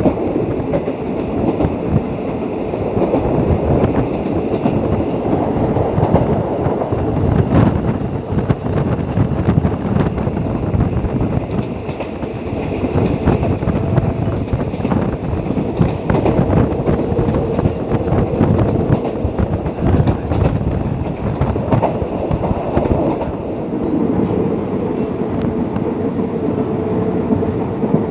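Passenger train running, heard from a carriage window: a steady rumble of the wheels on the track with a clickety-clack of knocks over the rail joints.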